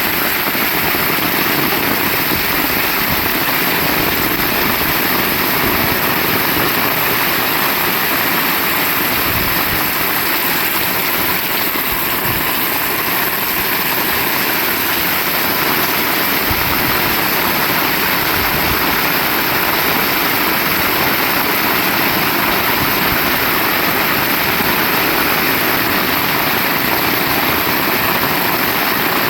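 Heavy rain falling steadily, a loud, even hiss of downpour.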